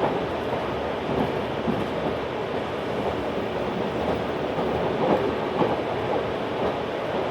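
Running noise of a JR 383 series tilting electric train heard inside the passenger car: a steady rumble of wheels on rail with a few faint knocks.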